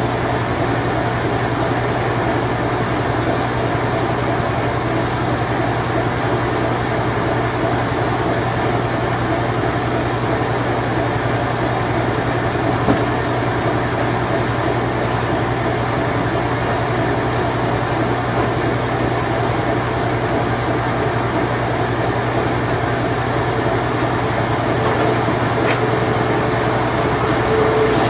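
Late-1980s Whirlpool Imperial Clean Touch washing machine on its spin cycle: a steady mechanical hum with a low drone under it. A faint higher tone comes in near the end, with a few light clicks.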